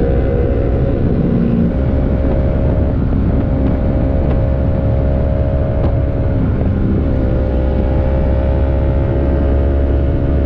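Motorcycle engine running at a steady cruising speed under heavy low wind rumble. The engine note holds steady and shifts slightly in pitch a couple of times.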